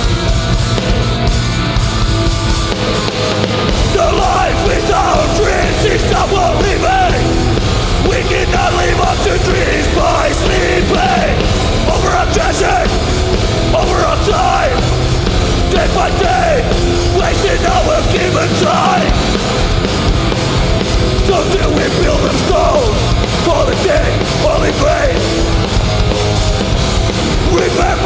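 Hardcore punk band playing live: loud distorted guitars, bass and drums, with shouted vocals coming in about four seconds in.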